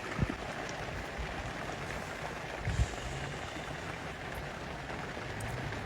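Steady rushing wind noise with a low rumble, broken by two short low thumps, the louder about three seconds in.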